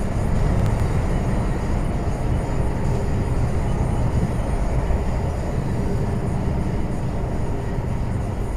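Heavy goods lorry on the move: steady engine drone and road rumble.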